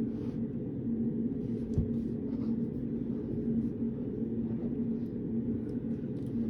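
Steady low room hum of a study room, with one constant droning tone, and a few faint light taps and rustles, plus a soft thump about two seconds in.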